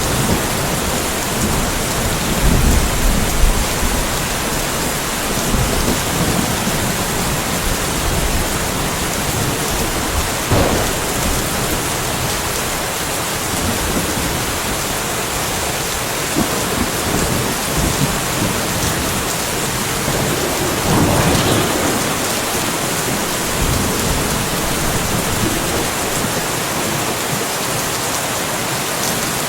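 Steady rain falling in a light thunderstorm, with low thunder rumbling at the start and fading out within the first few seconds. Two brief louder swells come about a third and about two thirds of the way in.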